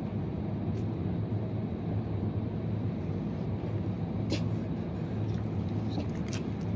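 Steady low rumble and hum of supermarket background noise, with a few faint sharp clicks scattered through it.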